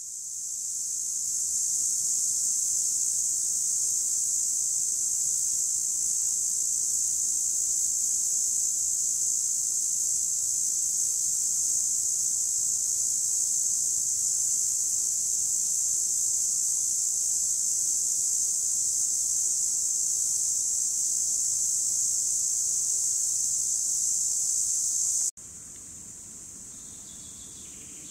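Cicada singing: a loud, continuous high-pitched buzz that fades in at the start and holds steady. About 25 seconds in it cuts off abruptly and a much fainter buzz follows.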